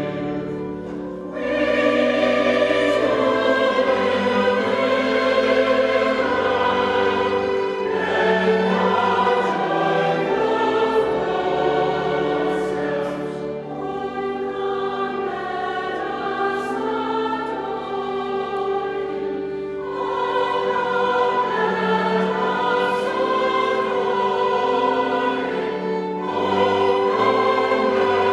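Choir singing a sacred piece in sustained chords, with a new phrase beginning about every six seconds.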